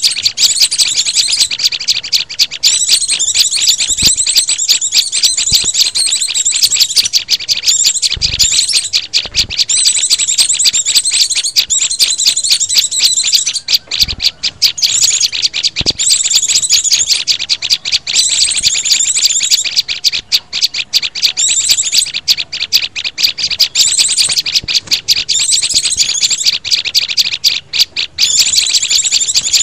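Bird-lure recording of mixed small-songbird calls, such as white-eyes, prinias, sunbirds and flowerpeckers: loud, rapid high-pitched chirping and twittering in dense runs, with brief gaps between phrases.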